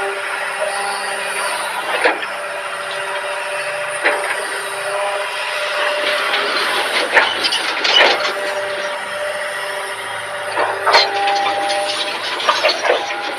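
Excavator engine and hydraulics running steadily with a held whine, broken by scattered sharp knocks and clanks.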